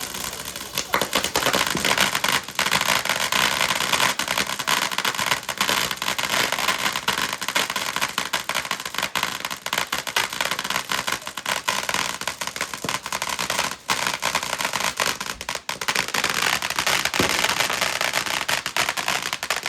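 Consumer fireworks going off in a dense, continuous crackle of rapid pops, building about a second in and carrying on unbroken for nearly twenty seconds.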